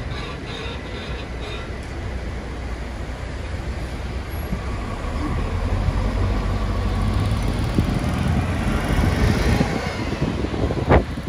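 Rhaetian Railway metre-gauge train rolling away along street track, its wheels clicking over the rail in a steady rhythm for the first couple of seconds. Then a city bus passes close by, its engine and tyres growing louder toward the end. A single sharp knock comes just before the end.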